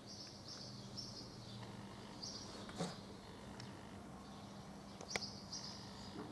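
Small birds chirping outside in short high calls, in little runs of two or three, with two sharp knocks, the louder one a little past five seconds in.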